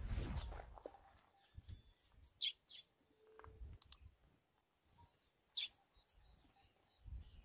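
A few short, faint bird chirps: a pair about two and a half seconds in, another near five and a half seconds, and some faint thin calls in between. Low rumbles run under them.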